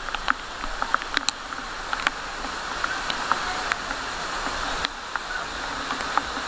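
Steady rush of running water from a monsoon waterfall or stream, with scattered sharp clicks throughout.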